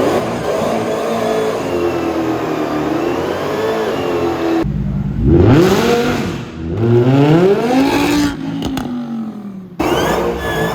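High-performance car engines revving in a few short clips spliced together, the pitch climbing and dropping as the throttle is blipped. The sound cuts suddenly to a new clip about halfway through and again near the end.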